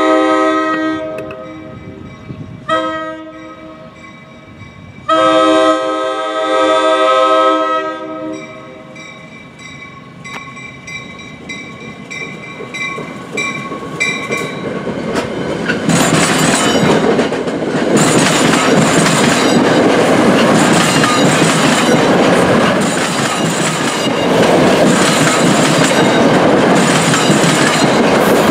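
NJ Transit commuter train's horn sounding a long blast, a short one and another long one as the train approaches. From about sixteen seconds in the train passes close by: a loud steady rush with a rhythmic clatter of wheels over the rail joints.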